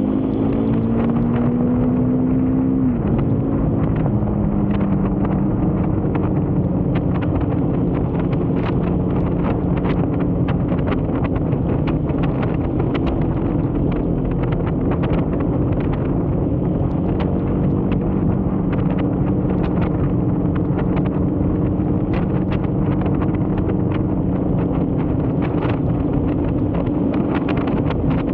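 Husqvarna Svartpilen 401's single-cylinder engine under way, revs rising for the first few seconds then dropping with a gear change about three seconds in, then holding a fairly steady cruise. Wind buffets the microphone throughout, with frequent short crackles.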